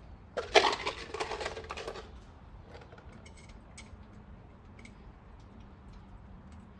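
Metal tools or hardware clattering while being handled for about a second and a half, followed by a few light clicks.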